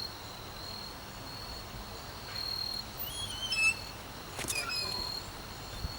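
Insects trilling steadily at a high pitch, with a few short bird chirps about three seconds in and again a little later.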